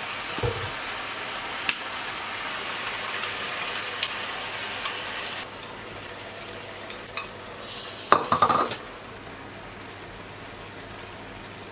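Onions and chicken frying in a pan, a steady sizzle with a few clicks of chopsticks. About halfway through the sizzle drops as seasoning liquid is poured in from a bowl, and a short clatter of chopsticks on the bowl and pan follows.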